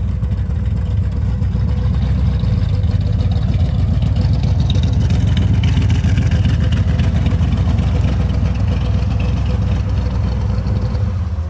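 Car engine and exhaust running loud and close, a deep steady note that swells slightly to about halfway, then eases off toward the end.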